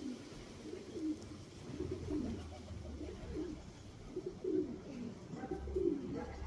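Pigeons or doves cooing, repeated low coos one after another.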